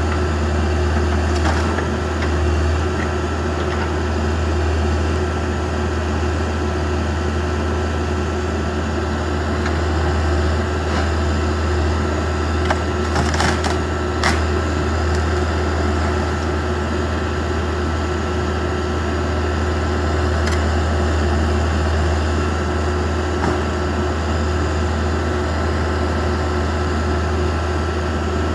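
Backhoe's diesel engine running steadily, with a few sharp knocks and cracks about halfway through, as the garage is broken down.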